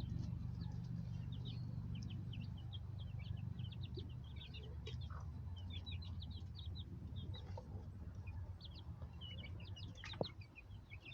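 A group of baby chicks peeping, with many short, quick high chirps throughout, over a steady low hum.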